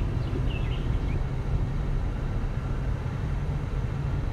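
Steady low rumble of a car driving: engine and road noise heard from inside the car. A brief faint high chirp sounds about half a second in.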